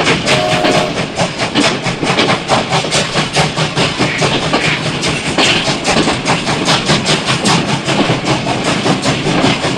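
Rapid, continuous mechanical clattering, about five knocks a second, with no let-up.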